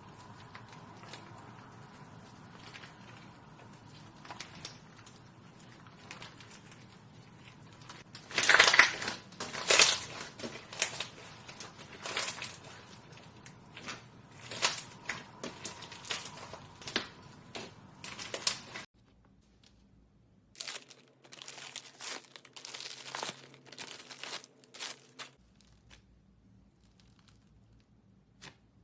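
Slime being squeezed and stretched by hand, giving quick sticky crackles and pops. The pops grow louder about a third of the way in, stop suddenly after about 19 seconds, and return in a second short run a couple of seconds later.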